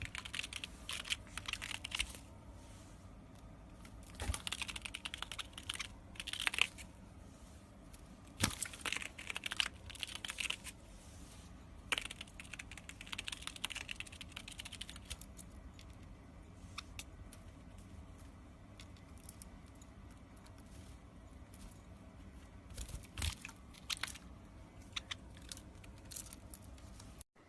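A parrot crunching and tearing at something with its beak: spells of crackling clicks a couple of seconds long, repeated several times, then scattered single clicks.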